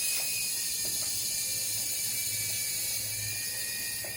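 Small electric motors and rotor blades of a toy remote-control helicopter running at a steady speed: a high, steady whine over a hiss from the spinning blades.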